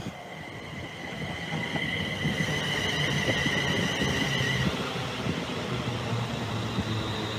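Network Rail HST test train, with Class 43 diesel power cars, passing through the station: a steady rail rumble with a low engine hum. A steady high whine sits over it and stops a little after halfway.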